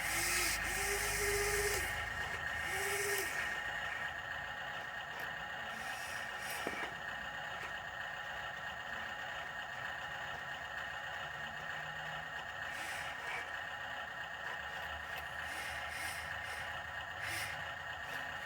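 Dump truck running steadily, with short bursts of air hissing and three short low tones in the first few seconds.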